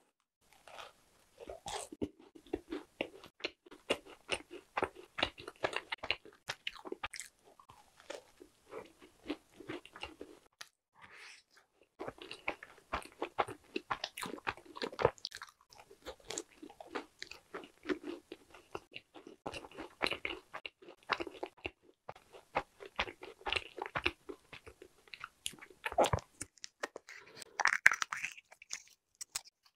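Close-miked biting and chewing of a cream-filled macaron: small crisp crunches and wet mouth sounds in irregular bursts. Near the end, the cap of a small plastic milk bottle is twisted open.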